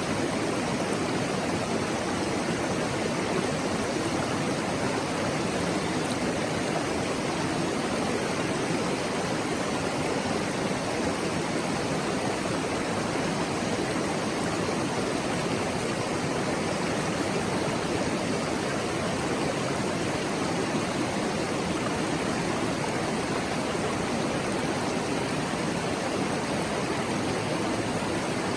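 Mountain stream flowing steadily over rocks: an even rushing and babbling of water, strongest in the low-middle range.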